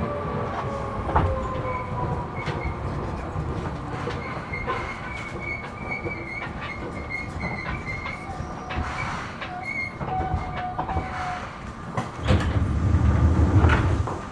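Running sound inside a Seibu New 2000 series electric train at speed: steady rolling noise with repeated rail-joint clicks and faint wheel squeal tones. A motor whine falls in pitch near the start, and the rumble grows louder for a couple of seconds near the end.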